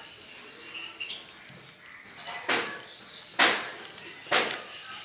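Caged pet lovebirds chirping, with short high notes repeating steadily. In the second half, four louder harsh rasping sounds come about a second apart.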